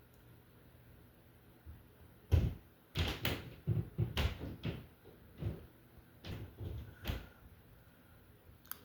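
A series of a dozen or so separate knocks and clunks of hard parts, starting about two seconds in and ending about seven seconds in, as the bascule bridge span is raised.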